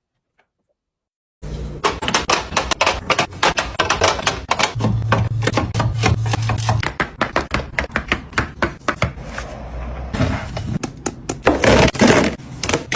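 Quick, irregular clicks, taps and knocks of items and containers being handled and set down while restocking a refrigerator, over a low steady hum. It starts suddenly after about a second and a half of silence.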